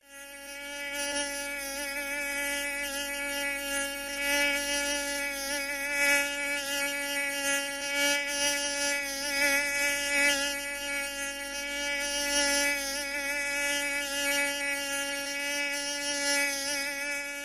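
Buzzing of a flying insect's wings, a steady drone with a slightly wavering pitch that fades in over the first second.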